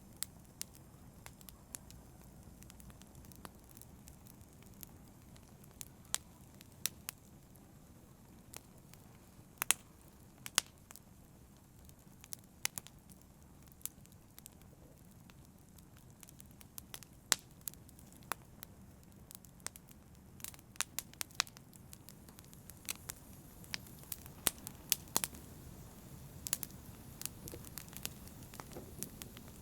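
Wood fire crackling, with irregular sharp pops over a low, steady rumble of flame. The pops come more often in the second half.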